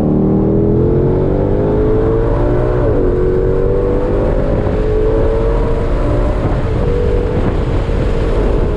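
2022 Shelby GT500's supercharged 5.2-litre Predator V8 under hard acceleration, heard from inside the cabin. The engine rises in pitch, drops quickly with an upshift about three seconds in, climbs again and levels off near the end.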